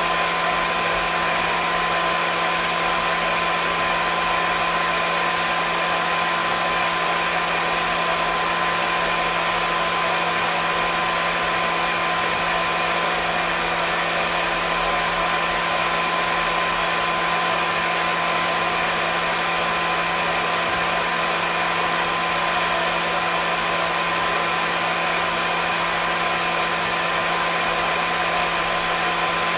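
Hair dryer running steadily: a constant rushing blow of air with a steady motor hum and whine, unchanging throughout.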